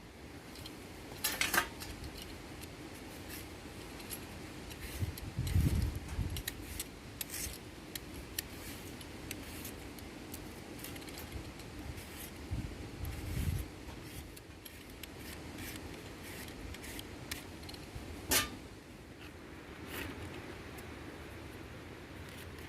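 Scattered light metallic clinks and clicks of kitchenware being handled during food preparation, with two duller low thumps about six and thirteen seconds in.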